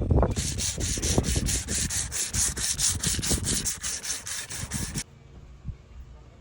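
Quick, even back-and-forth scraping strokes of a hand tool, about five a second, stopping abruptly about five seconds in.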